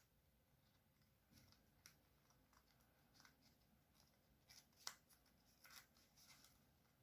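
Faint rustling and crinkling of a sheet of paper being handled and folded, with short scattered crackles; the sharpest is about five seconds in.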